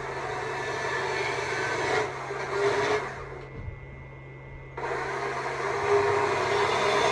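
Stihl MSA 200 C battery chainsaw running and carving wood, with the sound dropping away for about a second and a half near the middle as the trigger is let off, then coming back to full speed.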